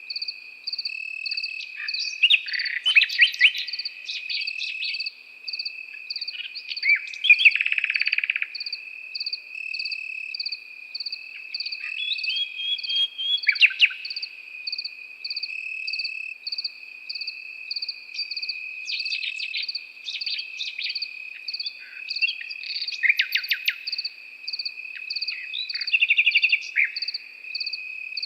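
A nightingale singing in separate short phrases of rapid notes and sweeps every few seconds, over crickets: one trilling steadily and others chirping in an even pulse several times a second.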